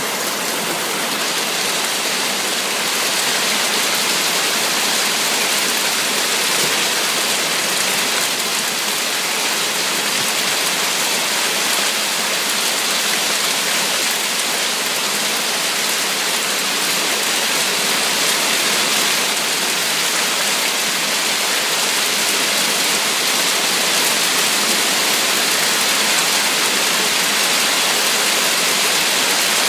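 A heavy hailstorm with rain pelting down: a dense, steady hiss of countless small impacts that does not let up.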